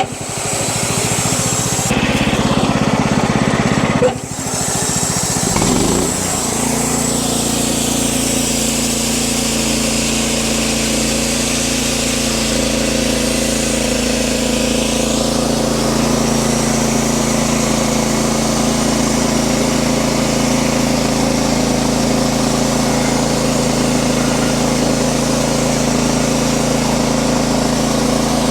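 Wood-Mizer LX50 Super band sawmill running with its blade in the log, a loud mechanical drone. For about the first six seconds it sounds rough and uneven, then it settles into a steady drone.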